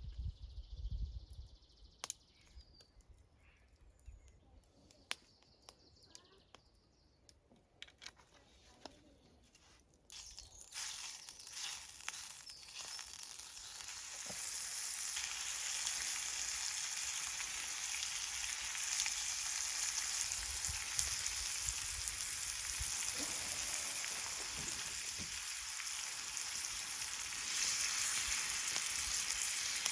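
Breakfast frying in a pan over a campfire. The first ten seconds or so are quiet, with a few small clicks and knocks. Then a sizzle starts about ten seconds in, builds over a few seconds and holds steady, a little louder near the end.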